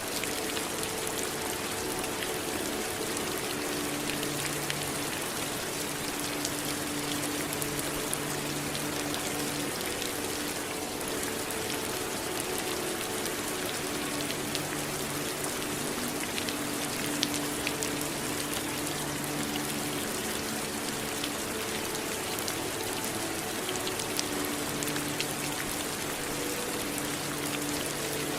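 Steady rainfall, an even hiss sprinkled with the ticks of individual drops striking a surface.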